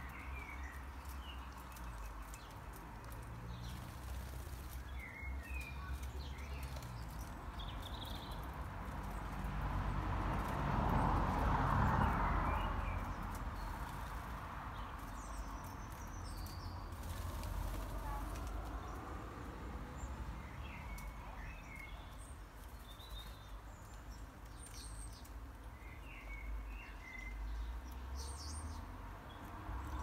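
Garden birds giving short, scattered chirps and calls over a steady low rumble, with a broad swell of noise that rises and fades around the middle.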